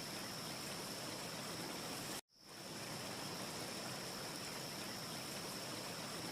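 Steady rushing ambience noise with a faint high whistle running through it. It cuts out abruptly to silence about two seconds in, then fades quickly back up: the seam of a looped recording.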